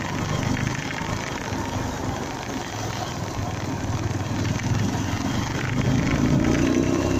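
Honda MegaPro single-cylinder motorcycle engine running on the move, with road and wind noise. Near the end the engine pitch rises as it accelerates.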